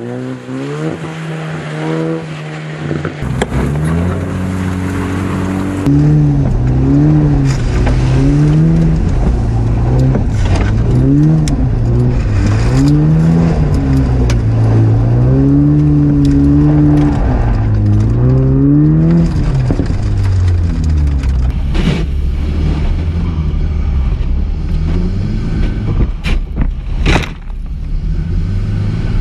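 Jaguar F-Type rally car's 2.0-litre four-cylinder petrol engine driven hard: the revs climb and drop again and again as it accelerates and shifts, over a steady rushing noise of tyres on loose ground. A few sharp knocks come near the end.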